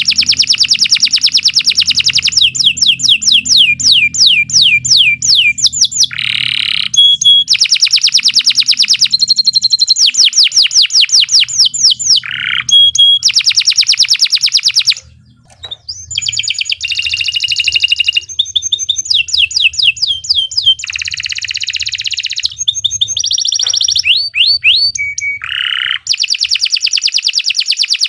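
Domestic canary singing a long, unbroken song: rapid trills of quickly repeated notes that each fall in pitch, alternating with a few held whistled notes. There is a short break about halfway through.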